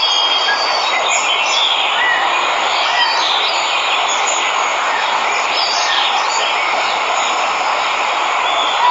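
Waterfall rushing steadily, with birds chirping over it.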